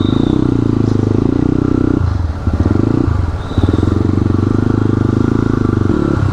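A slightly modified motorcycle engine running under way. Its pulsing note drops briefly twice, about two and three seconds in, then picks up again.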